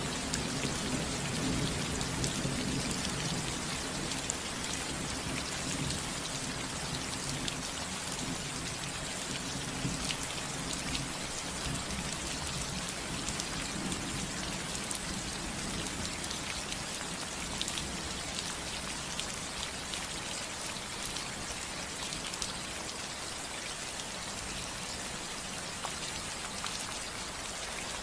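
Steady rain falling on a roof, a dense hiss full of individual drops tapping. A low thunder rumble underneath fades away by about halfway through.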